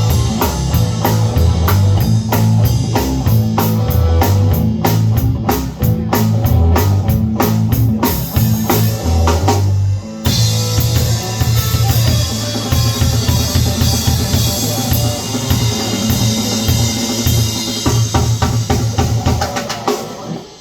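Live blues band playing, drums and bass up front: busy drum-kit hits over a pulsing bass line, then from about halfway a steady cymbal wash over held notes, breaking off suddenly just before the end.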